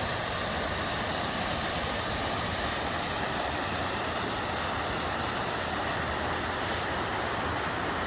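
River water rushing, a steady, even noise without a break.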